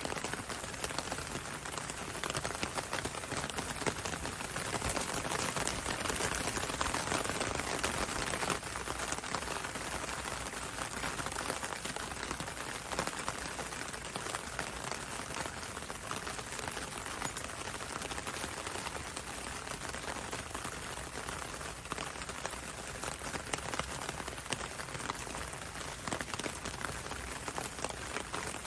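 Steady rain pattering on a window and on the road outside, a dense hiss of many small drop taps, a little heavier a few seconds in.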